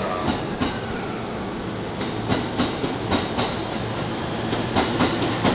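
JR Shōnan-livery electric commuter train moving past a platform, its wheels clicking over the rail joints in close pairs as each bogie passes, over a steady rumble and a faint high whine.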